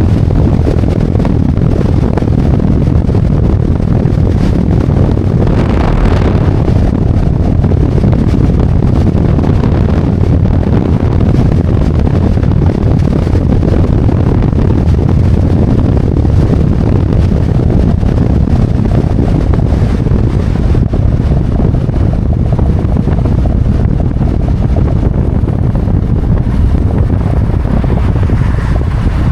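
Harley-Davidson Road Glide's V-twin engine running steadily on the move, mixed with wind rushing over the helmet microphone. There is a brief louder rush of wind about six seconds in.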